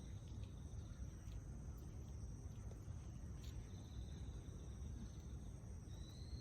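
Insects, most likely crickets, trilling steadily in the background at a high thin pitch, a second lower trill coming and going, over a constant low rumble.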